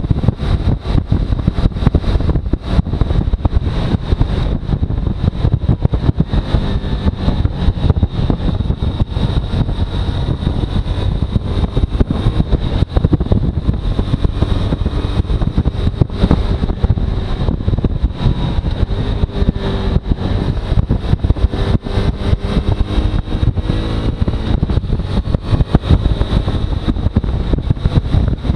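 Suzuki V-Strom motorcycle running, loud, continuous and choppy, with a thin steady high whine over it.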